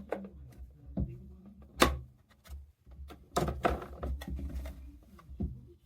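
A series of irregular knocks and clunks, as of hard objects being handled and set down. There is one sharp knock about two seconds in and a clatter of several clunks in the middle, over a low rumble.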